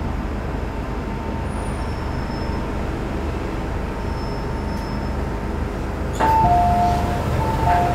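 A steady low rumble, then a two-note ding-dong chime, high then low, that sounds twice from about six seconds in.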